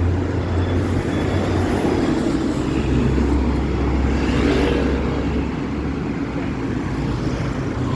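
City street traffic dominated by scooters and motorbikes: a steady mix of small engines running and passing, with tyre and road noise.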